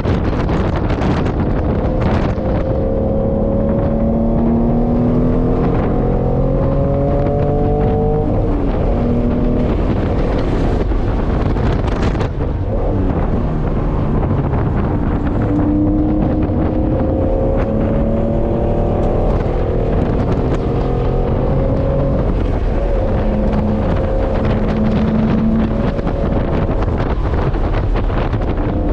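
Vintage sports car's engine heard from inside the cabin at racing speed, its pitch climbing as it accelerates out of corners and dropping back under braking and gear changes, with heavy wind and road noise.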